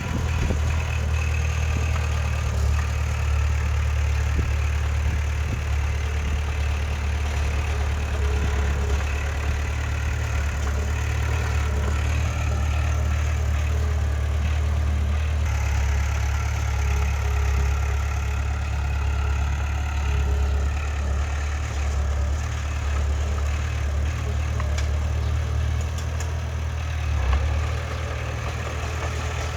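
Heavy diesel engine of earthmoving machinery running steadily, deep and unchanging.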